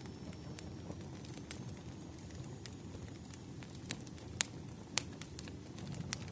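Wood fire crackling: a steady low rumble of burning logs with scattered sharp pops and snaps, the two loudest about four and a half and five seconds in.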